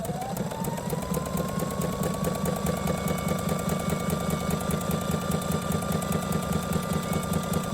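Small electric motor driving a gearbox, as in a homemade mini construction vehicle, starts up. Its whine rises in pitch during the first second, then holds steady over a fast, even gear rattle.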